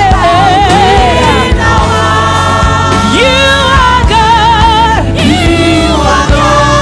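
Live gospel worship music: voices singing with vibrato over a steady band with bass and drums.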